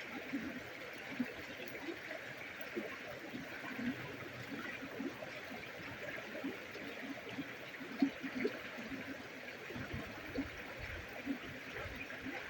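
Water running steadily, like a small stream, with faint scattered clicks and pops over it.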